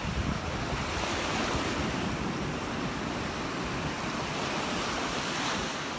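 Surf breaking and washing up the beach, swelling about a second in and again near the end, with wind rumbling on the phone's microphone at the start.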